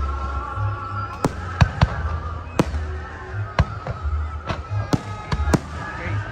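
Aerial fireworks bursting in a rapid, irregular series of about nine sharp bangs, with music playing underneath.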